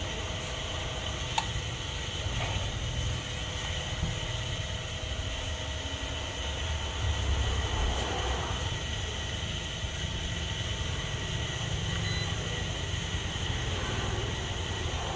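A 380-volt three-phase electric motor running steadily, a constant low hum with a steady whine over it.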